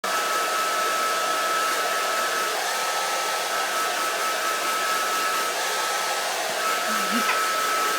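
Handheld hair dryer running steadily: an even rush of blown air with a constant high whine from its motor and fan.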